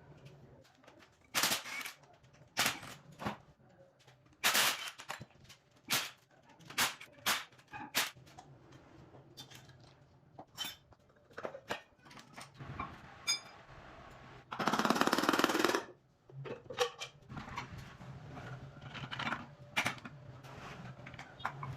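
An irregular series of sharp knocks and clanks, with a hissing burst lasting about a second a little past the middle, over a faint steady low hum.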